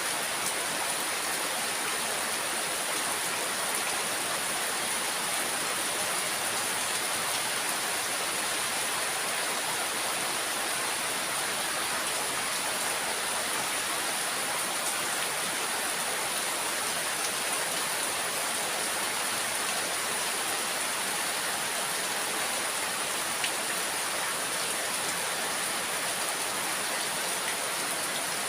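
Steady rain falling, an even, unbroken hiss with no rises or breaks.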